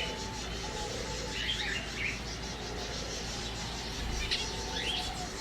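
Small birds chirping in short bursts, twice, about a second and a half in and again near the end, over a steady background hiss and faint held notes.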